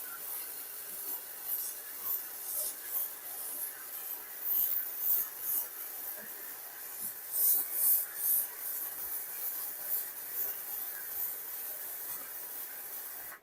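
MIG welding arc from a Kobe 315 Pro welder laying one continuous bead on thick steel at just over 200 A. It makes a steady, crisp crackle and hiss with irregular louder pops and no break in the arc, then cuts off suddenly at the end.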